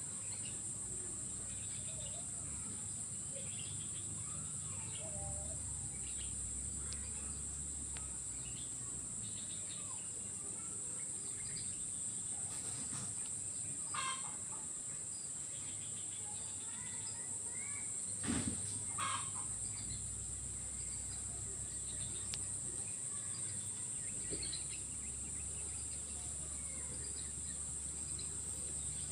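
Steady high-pitched drone of insects in swamp vegetation, with scattered bird calls over it and a few louder, sharper calls around the middle. A low rumble comes and goes underneath.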